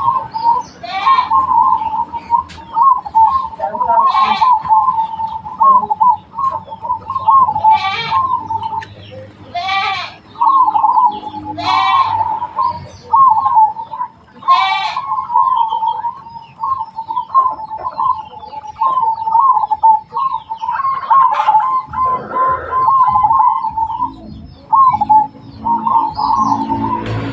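Zebra dove (perkutut) cooing almost without pause in quick, stuttering phrases at one fairly steady pitch, interrupted every second or two by brief high-pitched chirps.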